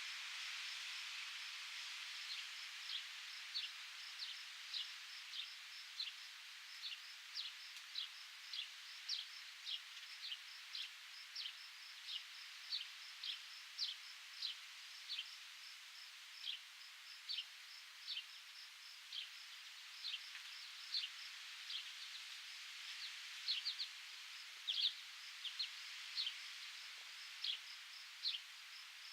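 Outdoor ambience of wind in foliage as a steady soft hiss, with a small bird repeating short, high, down-slurred call notes about once or twice a second from about two seconds in, over a faint, steady high insect trill.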